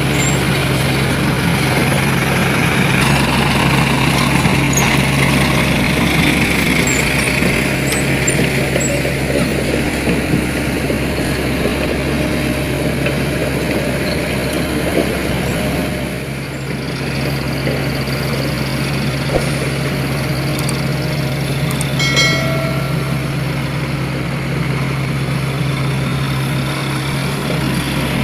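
Dump truck engine running steadily with a deep, even hum. About three quarters of the way through there is a brief high ringing tone.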